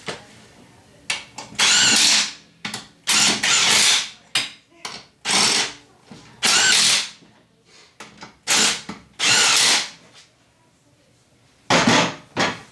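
Power drill or driver whining in about seven short bursts, each half a second to a second long, with pauses between.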